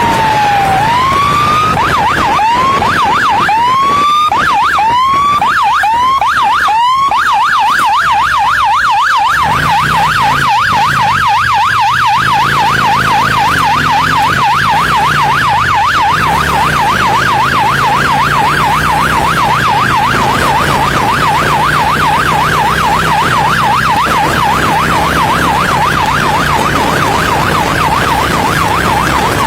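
Police siren: a falling wail, then short rising whoops about every half second, switching about seven seconds in to a fast, steady yelp. An engine runs underneath.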